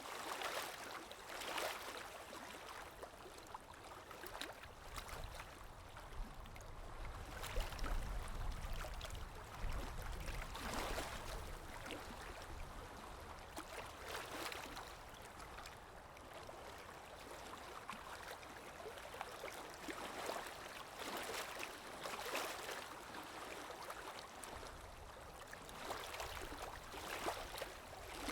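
Water lapping gently against a shore or hull with wind, a continuous wash that swells softly every few seconds, with a low wind rumble in places.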